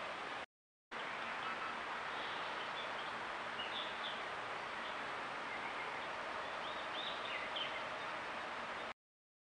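Steady outdoor hiss on a trail camera's microphone, with a few short, faint bird chirps. The sound cuts out to dead silence twice, briefly, between recordings.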